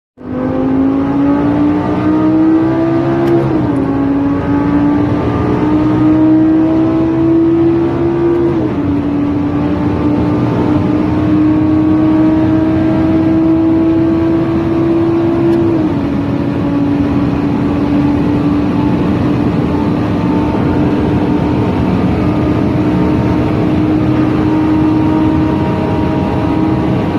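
Lamborghini Gallardo LP560-4's 5.2-litre V10 exhaust, loud and echoing in a tunnel, pulling steadily under light throttle. The note climbs slowly in pitch and drops three times, about three seconds in, eight seconds in and near sixteen seconds, as it shifts up a gear each time. It then holds a nearly steady cruise.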